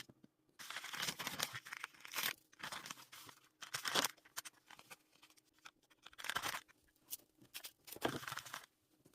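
Plastic sleeves and tape crinkling and tearing in irregular bursts as a photocard is wrapped for packing.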